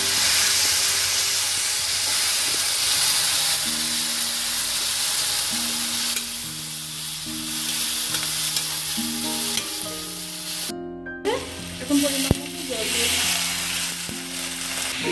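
Masala paste of onion, garlic, ginger and chilli with turmeric sizzling as it fries in a kadai, while a metal spatula stirs and scrapes it round the pan.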